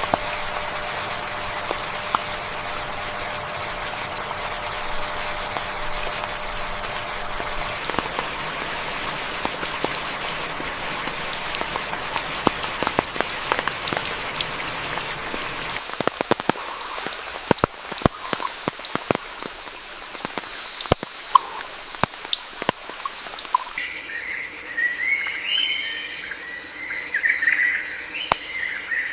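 Steady rain falling on foliage, with many sharp drops pattering. About halfway in it thins to scattered heavy drips, with a few bird chirps. Near the end a chorus of birds and buzzing insects starts up.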